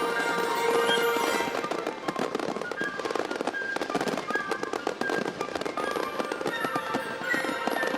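Rapid crackling and popping of fireworks, dense and continuous, mixed with background music that has sustained tones.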